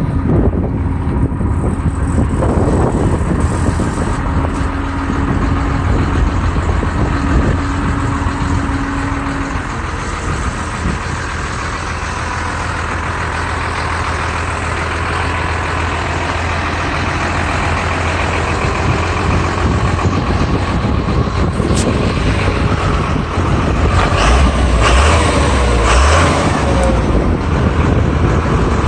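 Water truck's engine running steadily with a low hum, growing louder for a couple of seconds about 24 seconds in.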